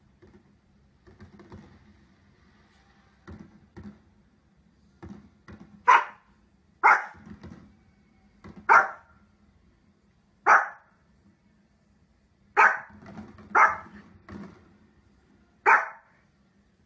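Small dog barking: a few quiet sounds, then seven loud, sharp barks spaced one to two seconds apart.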